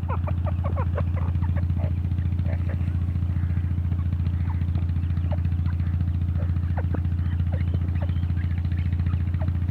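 A steady low engine drone with a rapid even pulse, like a motorcycle idling. Faint short bird calls are scattered over it, most of them in the first second or so.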